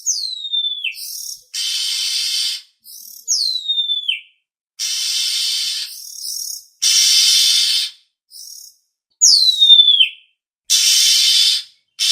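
Oriental magpie-robin (kacer) lure calls. Clear whistles slide down steeply, each ending with a little kink. They alternate with harsh, rasping chatter calls about a second long, in a repeating pattern.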